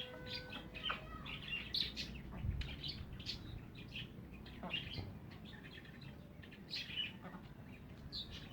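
Many short, high chirps from a mixed flock of backyard birds, scattered through the whole stretch, with a held tone in the first second.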